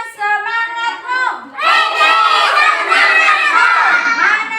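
Several young children's high-pitched voices talking and shouting over one another.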